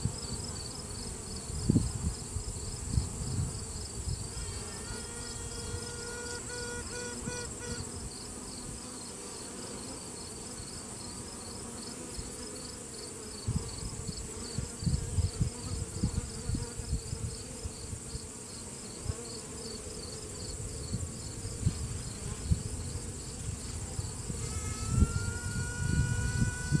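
Virgin honey bee queen piping: a trumpet-like tone held for a few seconds about four seconds in, and again near the end, where it opens with a short upward slide, over the steady buzzing of the worker bees. A virgin queen pipes like this to assert her dominance. Low bumps from handling the frame come in between.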